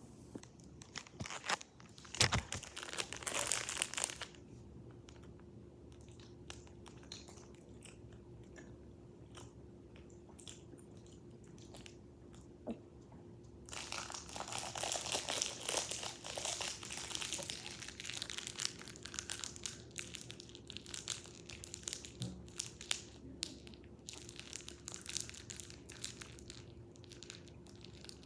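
Plastic fruit snack wrapper crinkling in two longer bursts, with small clicks and chewing between them.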